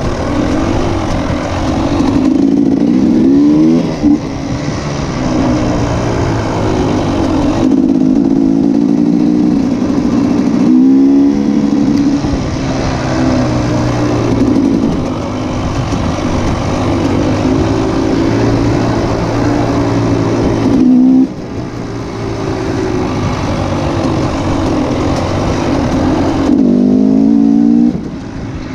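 Motocross motorcycle engines running hard, pitch repeatedly rising and falling as they accelerate and back off, with a few sharp rising revs.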